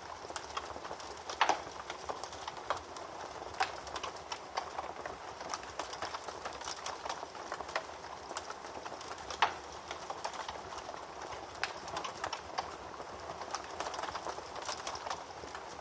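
Wood fire in a fireplace crackling: a steady hiss of burning with frequent sharp pops and snaps. A few louder pops come about a second and a half in, near four seconds and a little past nine seconds.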